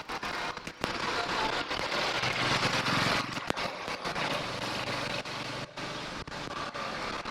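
Street traffic heard from a moving bicycle: a motor vehicle's engine runs close by for a few seconds in the middle, over a steady wash of traffic and road noise. The sound is broken by many brief crackles and dropouts from radio interference in the camera's unshielded mic adapter.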